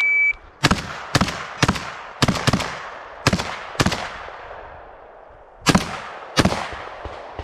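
An electronic shot timer beeps once, then a 12-gauge Beretta 1301 semi-automatic shotgun fires about ten shots in quick succession, each with an echoing tail. After a pause of nearly two seconds, two more shots follow.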